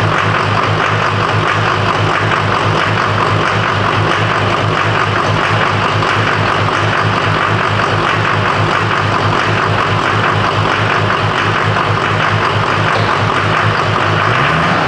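LB7 Duramax 6.6-litre V8 turbodiesel idling steadily with an even low pulse, its pitch starting to rise near the end as it is revved.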